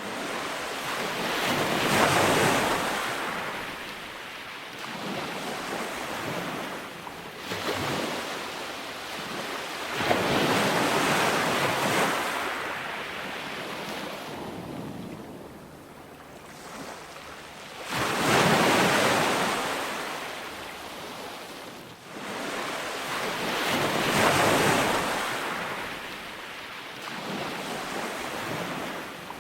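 Calm ocean waves breaking and washing up on a sandy beach, each wave swelling and fading away, one every six to eight seconds.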